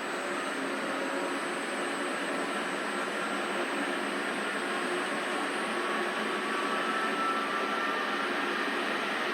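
Large 39 kg commercial washing machine running, a steady whirring rush of noise with a faint, constant high whine.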